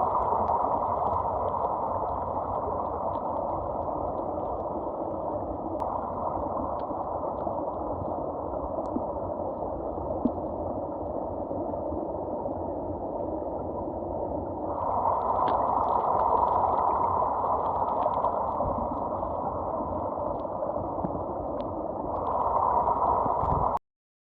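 Stream water heard through a camera held underwater in a pool: a steady, muffled rushing. It grows louder about two-thirds of the way in and stops abruptly near the end.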